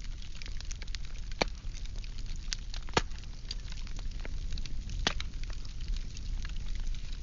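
Firewood burning: irregular crackling with sharp pops, the loudest about three seconds and five seconds in, over a low steady rumble of the fire.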